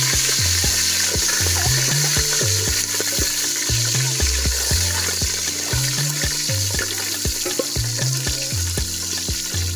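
Beef frying in hot oil in a pot, a steady sizzle, stirred now and then with a wooden spatula. Background music with a steady beat of about two strokes a second and a bass line plays over it.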